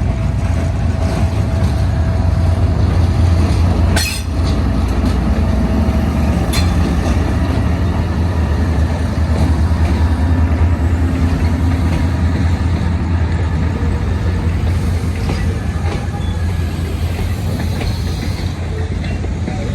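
Diesel-hauled passenger train pulling out of a station, its locomotive and coaches rolling by with a steady low rumble. Two sharp clanks come about four and six and a half seconds in.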